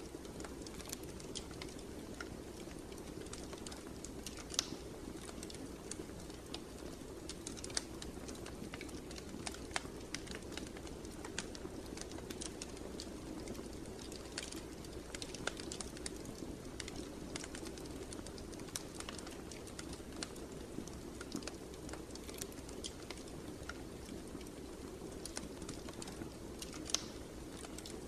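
Wood fire crackling in a fireplace: a steady low rush of burning with sharp, irregular pops and snaps scattered throughout.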